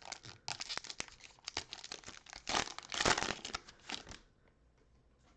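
Cellophane wrapper of a trading-card cello pack being torn open and crinkled: a run of crackly rustling that stops about four seconds in.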